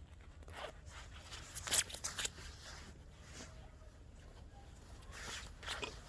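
Scattered rustling and scraping handling noises, a few short ones spread through the moment, over a steady low rumble.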